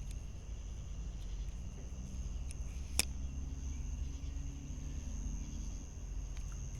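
Steady high-pitched chirring of insects over a low rumble, with one sharp click about three seconds in.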